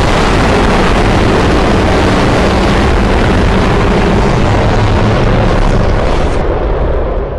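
Custom-made monster-roar sound effect: one long, loud, noisy roar with a heavy low end, fading out near the end.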